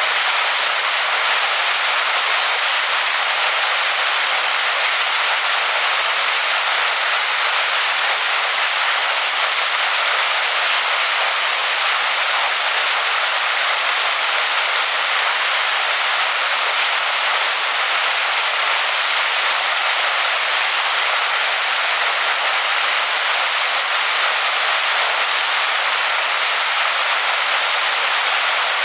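Waterfall pouring onto rocks: a steady, loud, even rush of water, bright and hissy with little low rumble.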